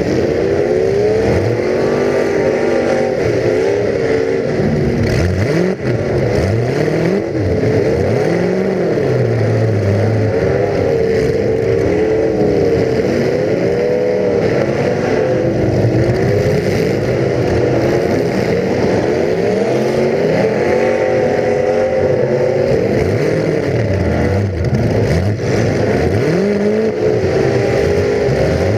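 Full-size demolition derby car engines revving up and down over and over, the pitch rising and falling every second or two, with several engines overlapping.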